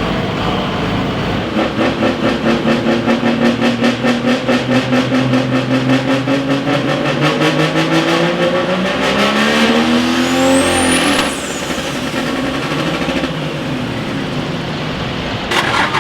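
Competition pulling vehicle's engine at full power on a pull, its pitch climbing steadily for about ten seconds with a high whine rising over it near the end. About eleven seconds in it cuts back to a lower, quieter running sound.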